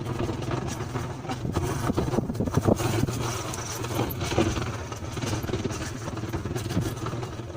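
Motorcycle engine running steadily at low speed while riding, with scattered knocks and clicks throughout.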